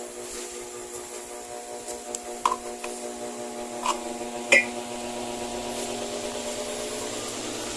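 Delta Premium 170 W wall fan running with a steady motor hum and the rush of its blades, with a few sharp clicks in the middle; it grows slightly louder in the second half.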